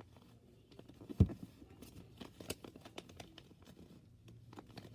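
A sheet of printer paper being handled and folded, with scattered small crinkles and taps, and one loud thump about a second in.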